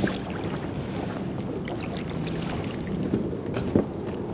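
Wind buffeting the microphone on an open boat, a steady low rumble, with a few light knocks and clicks, the sharpest about three and a half seconds in.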